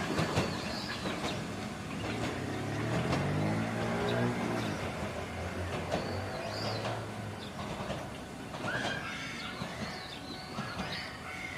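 Tokyu Deha 150 tram's nose-suspended traction motors fading as the car draws away, the motor hum falling in pitch and then holding a low drone, with short high squeals here and there.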